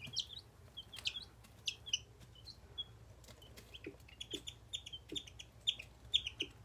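Baby chicks and ducklings peeping: faint, short, high peeps scattered through, coming quicker and closer together in the second half.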